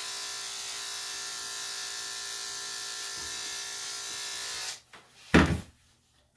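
Electric dog-grooming clippers running with a steady hum, switched off about three-quarters of the way through. Soon after comes a single short, loud knock.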